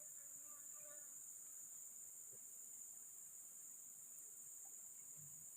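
Steady, faint, high-pitched chorus of rainforest insects such as crickets, droning without a break.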